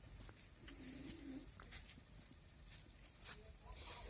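A single short, low call from a bird about a second in. It sounds over faint night ambience with a thin high insect tone and scattered soft clicks.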